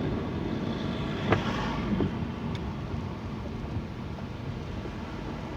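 Car cabin noise while driving slowly: a steady low road and engine rumble, with a sharp knock just over a second in and a smaller one at about two seconds.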